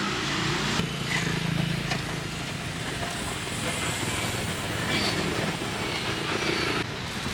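Steady street noise with a low vehicle engine hum.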